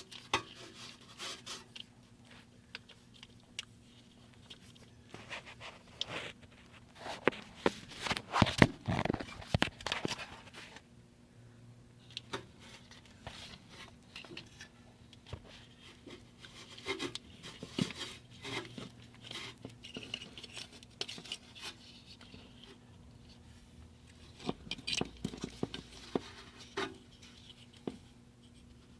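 Scattered clicks, knocks and scrapes of tools and parts being handled, with a cluster of louder knocks about a third of the way in and another near the end, over a faint steady hum.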